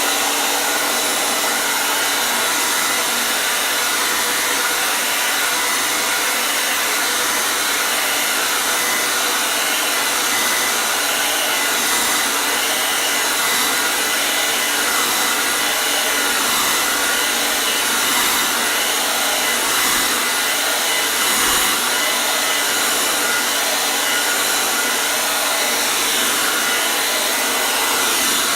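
Hair dryer running continuously, a steady, even hiss of rushing air with a faint motor whine.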